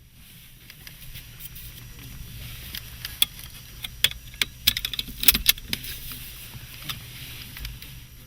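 Car keys jangling and a run of sharp clicks from the seatbelt buckle and key being handled in a car cabin, bunched about three to six seconds in, over a low steady hum.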